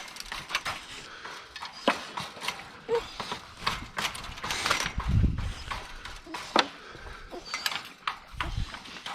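Dogs eating dry kibble: irregular crunching and clicking of food and bowl, with a low rumble about five seconds in.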